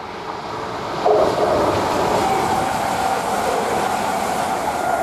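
East Midlands Trains diesel passenger train approaching and running through the station at speed. It grows louder, jumps up about a second in, and stays loud with a steady whine over the rumble of the wheels.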